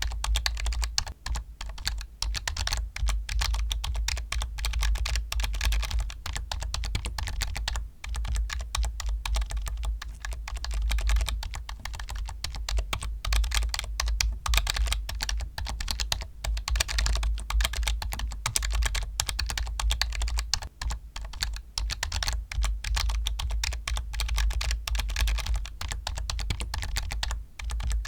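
Continuous fast typing on a computer keyboard: a dense stream of key clicks, each with a low thud under it, with brief lulls about eight seconds in and again near the end.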